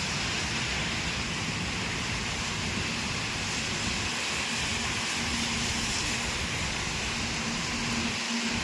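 Steady hiss of rain falling, with a low steady hum joining about halfway through and growing stronger near the end.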